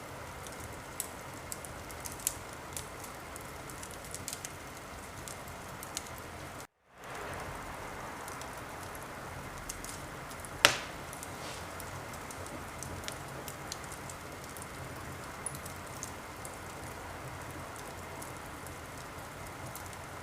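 Wood fire crackling in a fireplace: a steady hiss with scattered sharp pops, the loudest one about ten seconds in. The sound cuts out for a moment a little before seven seconds in.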